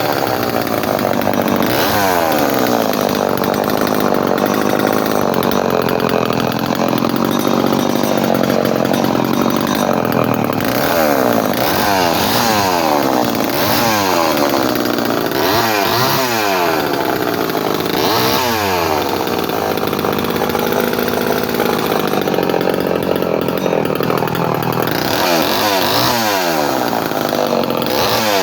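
Early 245A two-stroke chainsaw running on its monthly start-up. It holds fairly steady at high revs for several seconds, then the throttle is blipped repeatedly, the pitch dropping and climbing in quick swoops.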